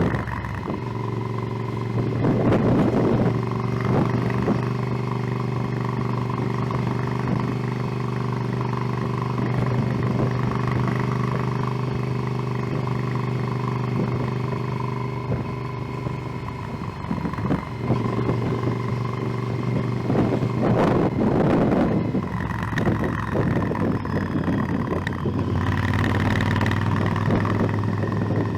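Motorcycle engine running steadily under way, with gusts of wind noise on the microphone around two to three seconds in and again about twenty-one seconds in. The engine note changes about seventeen seconds in and again near twenty-six seconds.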